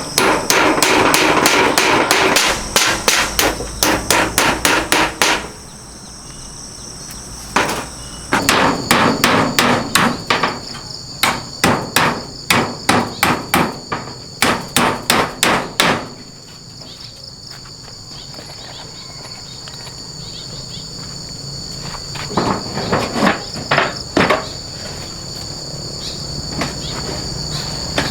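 Hammer blows struck in quick runs of about two to three a second, stopping and starting three times, over a steady high-pitched chorus of insects.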